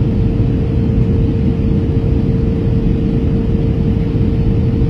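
Airbus A321 cabin noise on approach: a steady rumble of engines and airflow with one constant, unchanging hum underneath.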